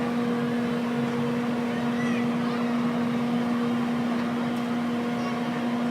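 Steady mechanical hum of carnival ride machinery, holding one constant pitch over a background wash of noise, with faint voices mixed in.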